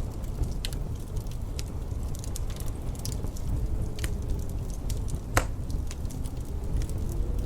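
Wood fire crackling, with irregular sharp snaps and one louder pop a little past the middle, over a steady low rumble and a faint wavering howl of wind.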